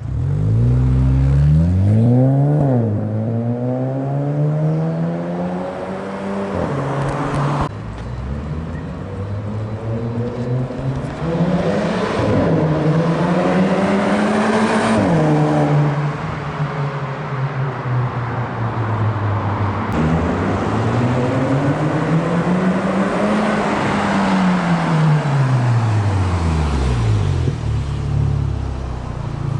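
Audi A4 B8 exhaust, an aftermarket system built from FOX components, with the engine revving up and down several times in rising and falling pitch, then settling to a steady idle near the end. The exhaust is a worn, 'tired' one.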